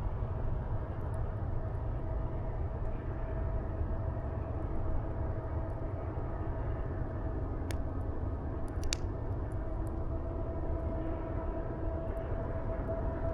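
Steady low drone with a faint held tone, like a distant engine, and two brief sharp pops a little over a second apart past the middle.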